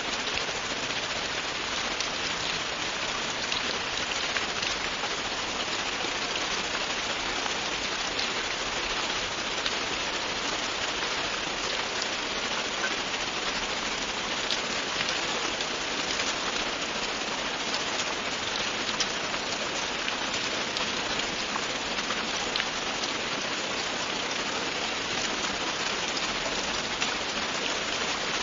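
Steady, continuous rain falling on a surface, an even hiss of many drops with small individual drop ticks throughout.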